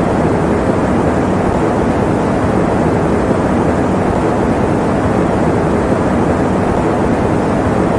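Electric fan running steadily: an even, deep rushing of air with no changes.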